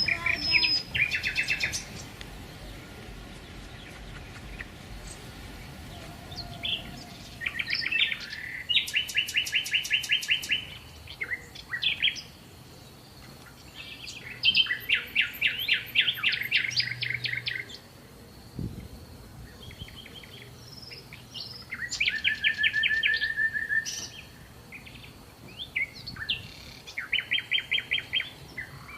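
Small songbirds singing: about five phrases of fast, evenly repeated high notes, each a trill of one to three seconds, with quieter gaps between them.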